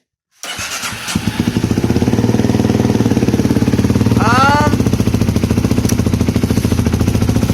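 Polaris Predator 500 ATV's single-cylinder four-stroke engine running steadily with an even, rapid pulse, coming in suddenly about half a second in.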